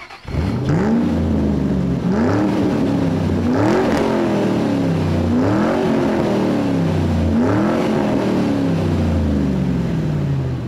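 Car engine revving up sharply and falling slowly back, about five times in a row, each rise quick and each fall drawn out.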